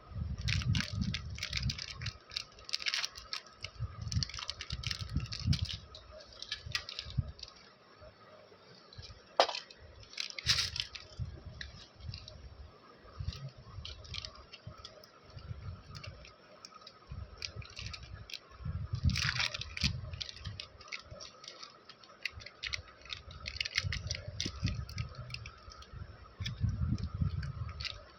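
Candy packaging being handled and opened: irregular clusters of crinkling and clicking, with soft thuds of handling.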